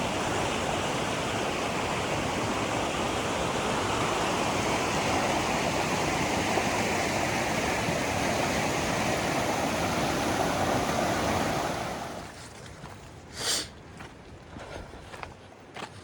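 Creek water rushing steadily, then dropping away sharply about twelve seconds in, leaving quieter background with a sharp click and a few faint ticks.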